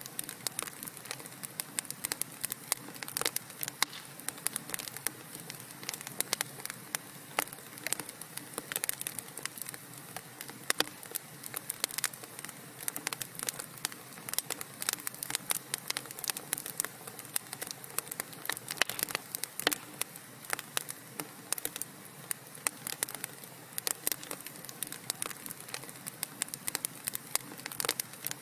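Wood fire crackling in a fireplace: a dense, irregular run of sharp pops and snaps over a soft steady hiss of burning logs.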